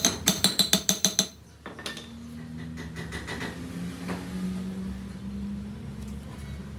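Rapid metal-on-metal strikes on steel, about eight a second with a bright ringing, stopping a little over a second in; then a steady low machine hum with a few held tones.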